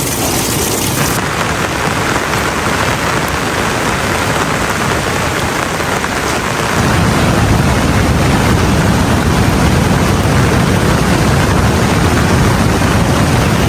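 Heavy rain falling steadily, growing louder and deeper about seven seconds in.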